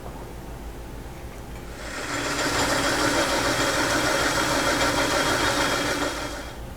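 Metal lathe running while turning a roller: it starts up about two seconds in, runs steadily with a whine made of several tones, then winds down near the end.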